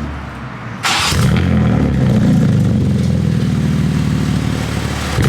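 Cold start of a 2023 BMW M3 (G80) xDrive with a titanium exhaust: its twin-turbo inline-six fires with a sudden loud flare about a second in, then settles into a loud, steady high idle.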